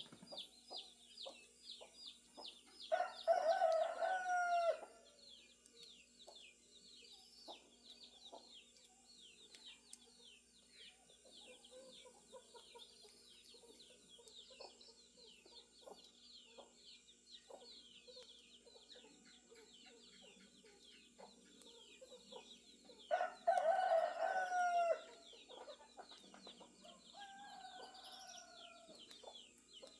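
A rooster crowing twice, each crow about two seconds long and some twenty seconds apart, with a fainter crow near the end. Small birds chirp rapidly and steadily throughout.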